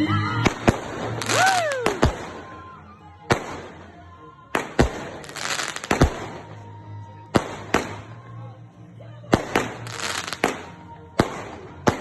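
Fireworks going off: a string of sharp bangs, some followed by crackling bursts, with a whistle that rises and then falls about a second and a half in.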